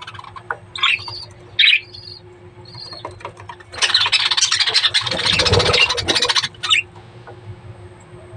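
Budgerigars calling: a few short chirps, then a loud, harsh burst of squawking lasting about three seconds in the middle, before the birds settle back to quieter chatter.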